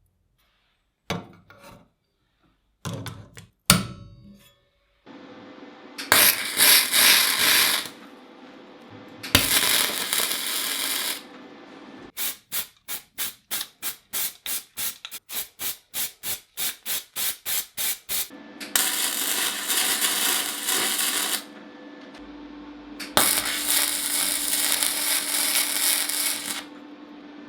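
Workshop tool work: a few clicks and knocks, then a machine humming steadily under repeated long bursts of loud hissing, with a stretch of rapid pulsing at about three a second in the middle.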